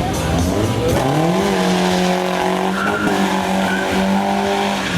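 A show vehicle's engine revs up about a second in and is held at a steady high rev, with tyres squealing or skidding.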